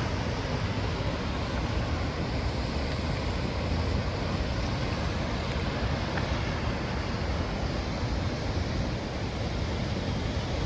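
Steady rush of tropical-storm wind and heavy rain, with wind rumbling on the microphone.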